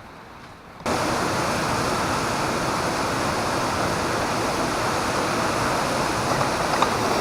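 Waterfall on a brook, heard close up: loud, steady rushing water that cuts in suddenly about a second in, after a fainter hiss.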